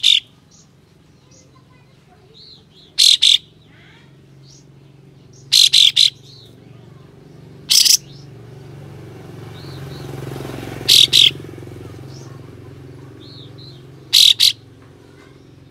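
Kapas tembak bulbul singing: loud, sharp, shot-like calls, singly or in quick pairs and triplets every two to three seconds, with softer chirps between them. A low background rumble swells and fades around the middle.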